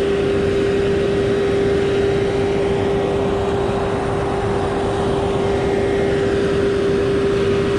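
Concrete pump truck's engine running steadily, with a constant whine held over the engine noise.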